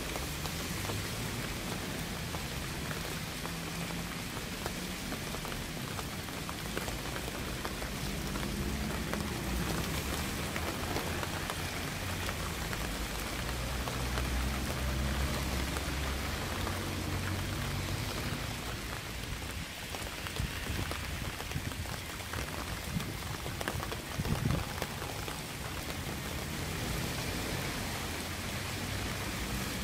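Steady rain falling and pattering on surfaces, with a low rumble underneath that grows stronger through the middle and a brief low thump about 24 seconds in.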